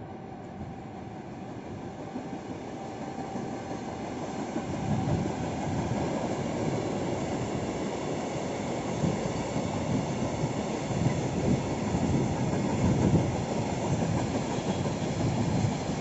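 Freight train of tank wagons passing, the rumble and clatter of its wheels on the rails growing louder about five seconds in and staying loud, with irregular knocks.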